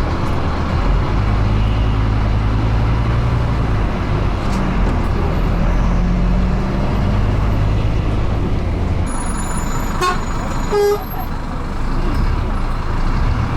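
City bus engine running steadily, with road noise heard from inside the cabin as it crawls through traffic. A brief high-pitched sound with quick clicks comes about ten seconds in.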